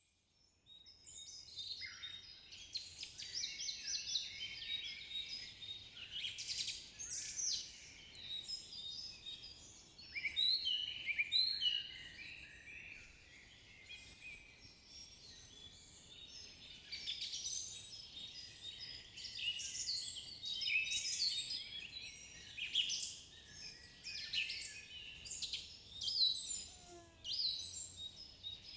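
Several songbirds singing and chirping at once, a dense chorus of short calls and trills that starts about a second in.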